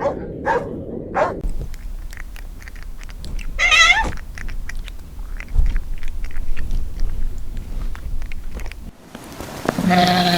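A dog barks a few times. Then comes a stretch of small crunching clicks of an animal chewing, with one short wavering call about four seconds in. Near the end a sheep or goat gives a long bleat.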